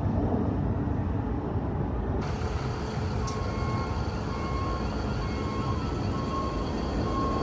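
Heavy vehicle engine running steadily, moving a roller coaster car. About three seconds in, a warning beeper starts: a short beep roughly once a second.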